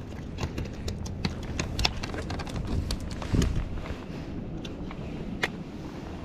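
Irregular light ticks and knocks over a low rumble of wind and water, with one dull thump about three and a half seconds in. These are handling noises on a small fishing boat while a hooked small speckled sea trout is brought in.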